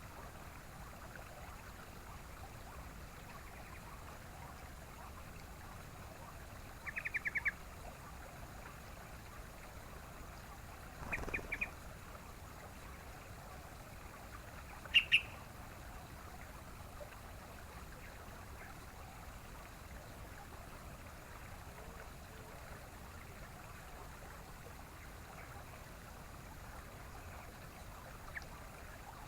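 Yellow-vented bulbul (trucukan) calling in short bursts: a quick run of about six clipped notes, a few more some four seconds later, then two loud sharp notes. A steady faint hiss lies underneath.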